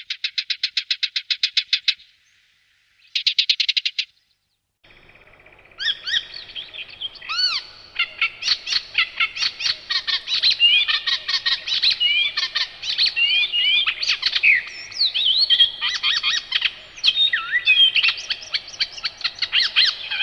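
A barred warbler gives two rapid, dry rattles. Then, from about five seconds in, a mockingbird sings a long, varied run of chirps, whistles and slurred notes.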